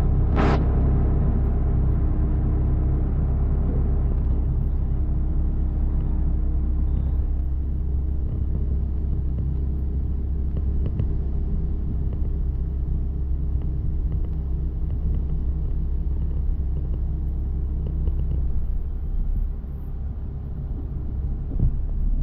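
A motor vehicle's engine running steadily, a low rumble with a steady hum.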